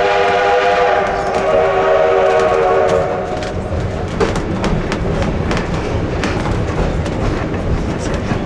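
Steam locomotive whistle sounding a long blast of several steady tones that ends about three seconds in. The train then runs on with a steady rumble and the clicking of wheels over rail joints.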